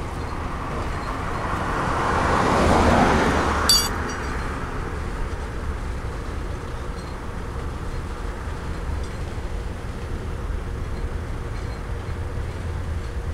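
Freight train boxcars rolling past with a steady low rumble. A louder rushing swell builds and fades about two to three seconds in and ends in one sharp metallic clank.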